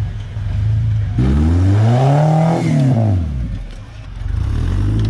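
Off-road 4WD truck engine revving hard: the pitch climbs from about a second in, holds briefly, then falls back toward idle, with a smaller rev near the end.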